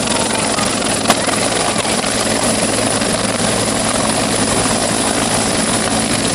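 Helicopter rotor and turbine running steadily at close range during a rescue, with a single brief click about a second in.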